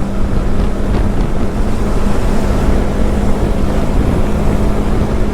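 TVS Apache RTR 310's single-cylinder engine running at a steady note under heavy wind rush on the microphone, as on a motorcycle being ridden.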